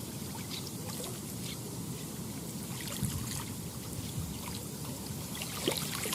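Lake water lapping and trickling at the shore: a steady wash with many small splashes.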